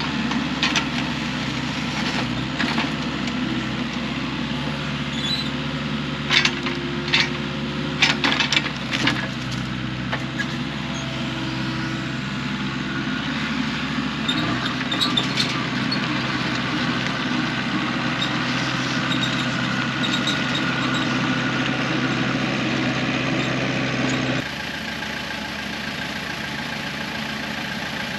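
A machine's engine running steadily, with a handful of sharp clanks or knocks about a quarter of the way in. Near the end the sound abruptly drops a little quieter and changes character.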